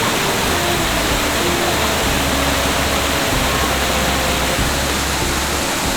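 Steady loud rush of Shiraito Falls, a wide curtain of water spilling down a rock face, with soft background music notes and bass faintly under it.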